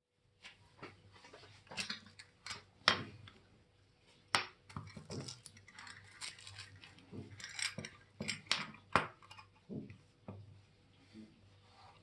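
Irregular light metallic clicks and clinks of watchmaker's tools and small watch parts being handled, one or two sharper taps a second.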